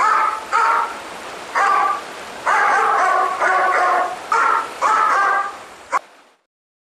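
A dog barking repeatedly, about eight barks spread over six seconds, then the sound cuts off suddenly.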